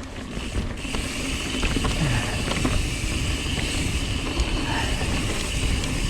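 Mountain bike rolling down a dirt trail: tyre noise, bike rattle and wind on the GoPro microphone, building about a second in and then running steadily.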